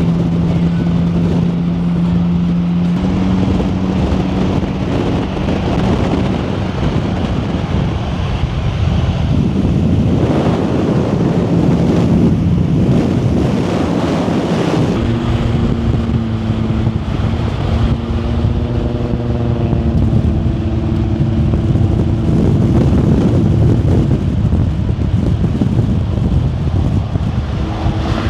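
Car driving at a steady speed: the engine drones at a constant pitch over road and wind noise, and the pitch steps up twice, about 3 s in and again about 15 s in.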